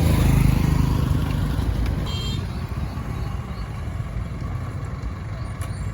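An engine runs steadily with a low rumble, loudest in the first second and then easing off a little. A brief high tone sounds about two seconds in.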